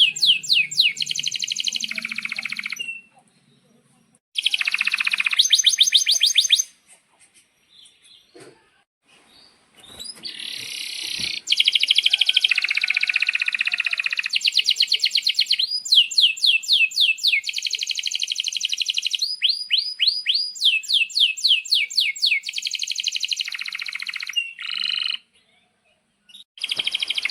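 Male domestic canary singing in fast trills and rolls, with long phrases of rapidly repeated high notes. A pause of a few seconds falls early on, and a long unbroken run of song fills the middle.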